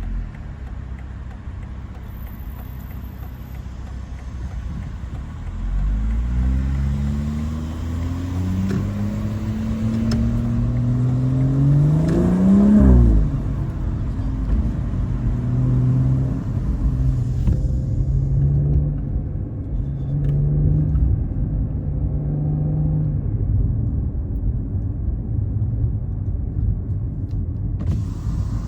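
BMW 540i's B58 turbocharged straight-six through an ARP aftermarket exhaust, pulling hard with the pitch climbing for several seconds, then dropping off suddenly and settling into a steady cruising drone.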